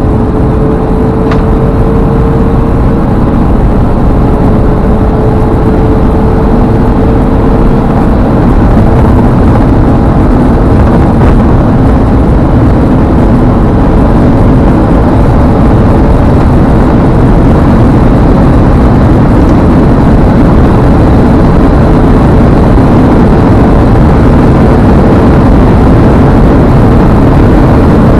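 Ford Explorer Sport with its V6 running hard, and heavy wind and road noise heard inside the cabin during a full-throttle top-speed run of around 150 mph. The noise grows louder over the first several seconds, then holds steady.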